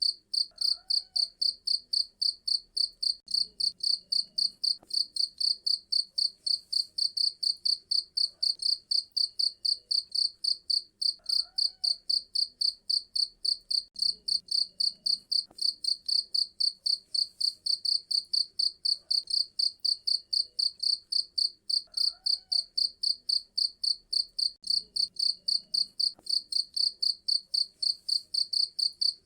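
Cricket chirping in a steady, even rhythm, about three high-pitched chirps a second.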